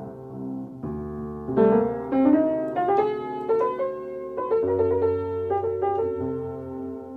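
Solo piano music: a melody over sustained chords, with a run of notes climbing in pitch partway through.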